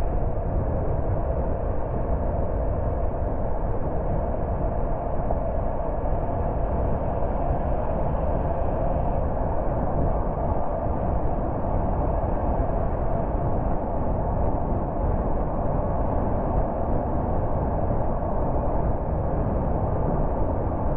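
Car driving at a steady speed: an even, unbroken road and engine noise with no revving or gear changes.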